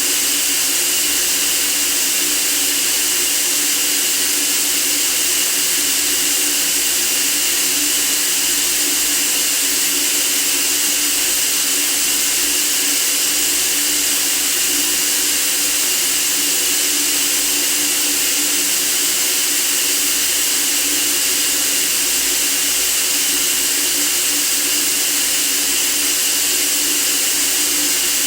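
Steady white noise for sleeping: a constant, unchanging hiss, brightest in the high range, with a faint low hum under it.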